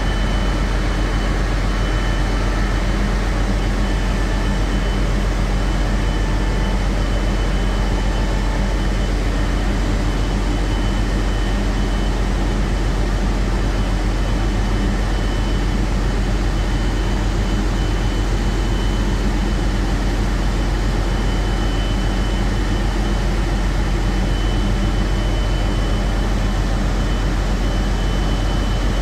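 Heavy diesel machinery of a work barge or offshore vessel running steadily: a deep, unchanging drone with a thin high whine over it.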